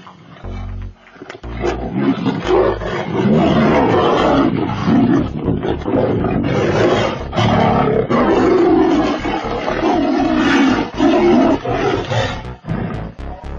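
Two tigers roaring and growling as they fight, a continuous loud rough sound that starts about a second and a half in and breaks up near the end. A few deep low thumps come before it.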